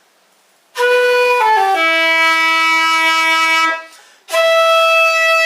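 Ostrich-bone shakuhachi played: a short run of notes stepping down to a long held low note, then a breath and a long held note an octave higher. The tone is rather hard, less mellow than bamboo.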